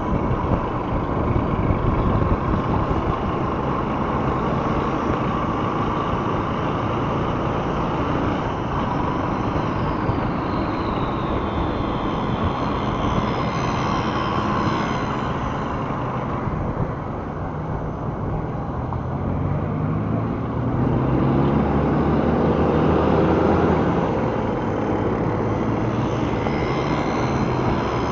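Motorcycle riding in city traffic: a steady rumble of engine and road noise, with an engine revving up and getting louder a little past twenty seconds in.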